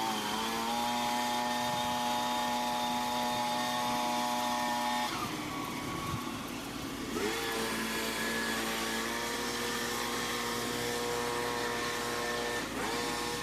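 An engine running steadily at a constant speed. About five seconds in its pitch drops, and about two seconds later it rises back to a steady speed.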